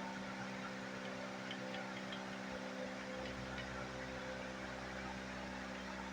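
Steady electrical hum with a light hiss, and a few faint small ticks.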